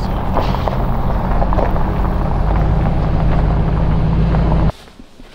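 A vehicle driving: steady engine and road rumble with small rattles and knocks. It cuts off suddenly near the end.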